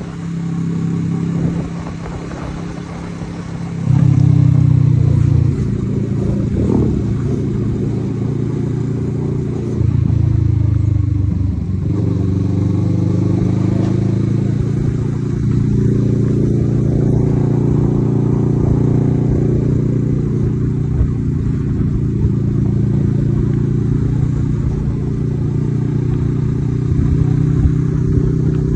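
Kawasaki Z650RS parallel-twin engine running through an Akrapovic aftermarket exhaust. It has two short louder bursts of throttle in the first half, then settles into a steady, even drone for the rest.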